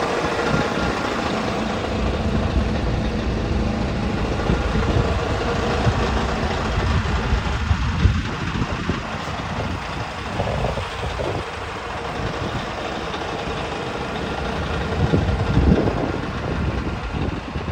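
Scania R420 truck's diesel engine running steadily, with a few short louder surges.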